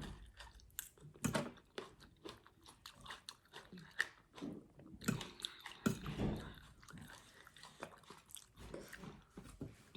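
A person eating close to the microphone: wet chewing with irregular crunches and bites, a few of them sharper and louder than the rest.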